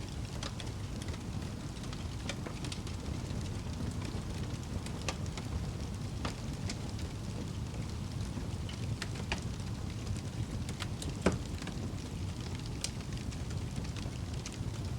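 Wood fire burning in a fireplace: a steady low rumble with scattered sharp crackles and pops, one louder pop about eleven seconds in.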